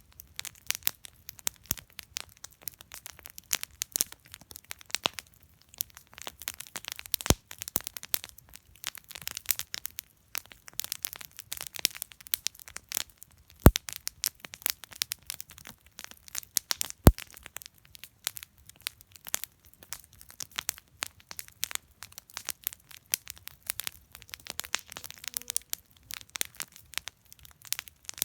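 Wood campfire crackling and popping irregularly as it burns, with three sharper loud cracks about a quarter, half and three-fifths of the way through.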